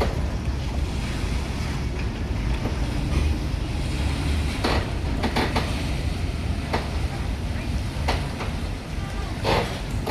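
Cross-river ferry boat's engine running with a steady low rumble under a wash of water and wind noise, broken by a few short, sharp knocks.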